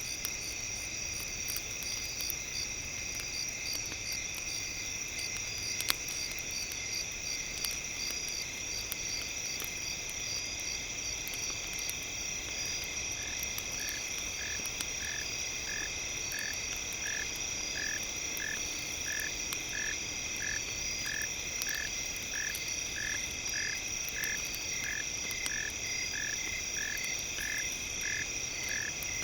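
Crackling campfire with light scattered pops, mixed under several steady high-pitched tones. About halfway through, a chirping call starts and repeats about one and a half times a second.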